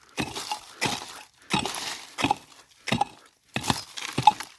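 A hand digging tool striking stony ground, with about seven sharp, even strokes scraping and crunching through soil and rock, roughly three strokes every two seconds.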